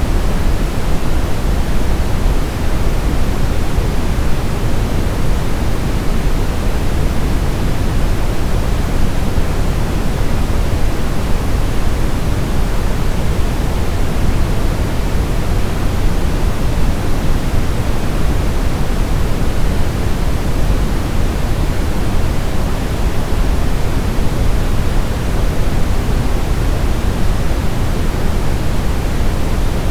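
Continuous generated sleep noise of the white-noise kind, a deep, even hiss weighted toward the low end, with no breaks or changes.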